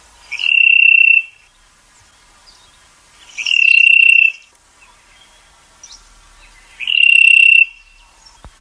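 A bird calling three times, each call one long, level whistle about a second long that starts with a quick upward slide, roughly three seconds apart, over a faint steady background hiss.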